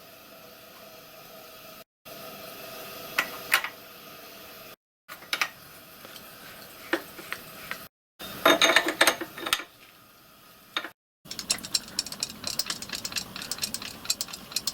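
Workshop metalwork noises: scattered sharp metallic clicks and a burst of clatter, then a fast run of small ticks near the end, in short clips broken by abrupt silent cuts.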